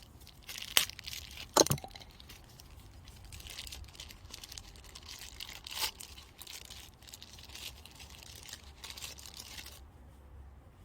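Plastic packaging of new seals being handled and crinkled, with two sharp clicks under two seconds in and another about six seconds in.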